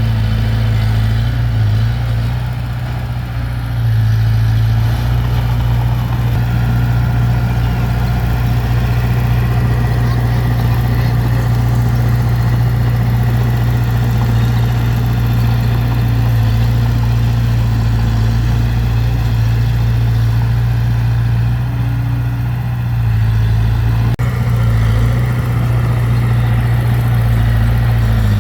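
Heavy diesel engine of earthmoving machinery running steadily, easing off briefly about three seconds in and again a little after twenty seconds.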